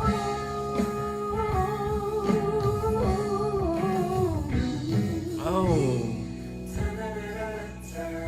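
A woman singing a soulful ballad over a live band with guitar: a long held note that slowly drifts down, then a quick vocal run about five and a half seconds in, going into further held notes.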